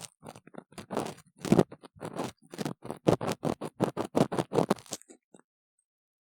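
Close-up ear-cleaning tool scraping and scratching inside a silicone ear model, in quick short strokes about three to four a second. The strokes stop about five seconds in.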